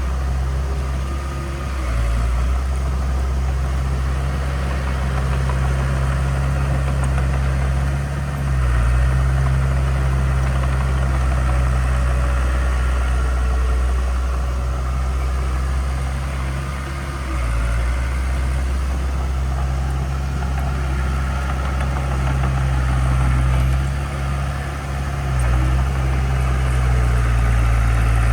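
Heavy diesel engine of a bulldozer or dump truck running steadily with a deep drone, briefly dropping and picking up again a few times.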